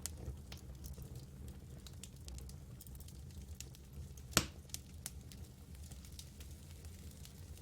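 Campfire burning: scattered crackles and snaps over a steady low rumble, with one sharp, louder pop about halfway through.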